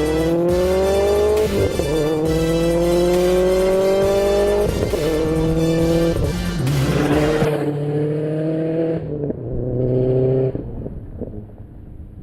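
Subaru with an aftermarket exhaust accelerating hard through the gears, its engine note rising and dropping back at each of about three shifts. Music plays underneath, and both fade out over the last few seconds.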